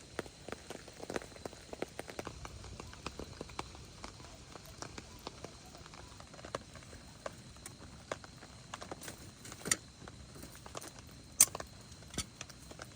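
Raindrops pattering irregularly, many small drips over a faint hiss, with two louder sharp cracks near the end.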